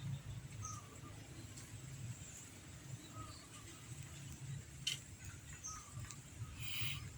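Faint, scattered short bird chirps over a low steady background rumble, with a couple of sharp clicks about five and almost seven seconds in.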